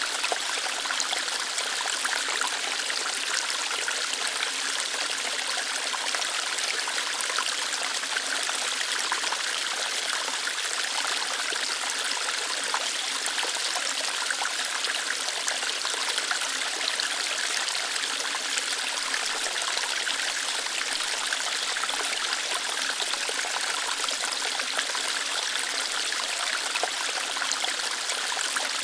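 Small waterfall or stream of water flowing lightly over rocks, a steady hissing rush with fine splashing and no change throughout.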